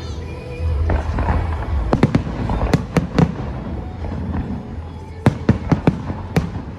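Fireworks going off: a run of sharp bangs and cracks about two seconds in, then another quick cluster about five seconds in, over a low rumble.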